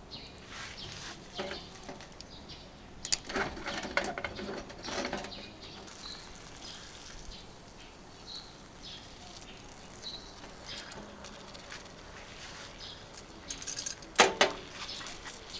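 Cooking handling noises: a cluster of rustling and clattering about three to five seconds in and a sharp knock near the end, with faint short bird chirps in between.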